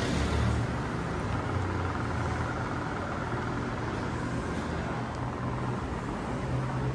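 An engine running at a low, steady idle rumble under constant background noise.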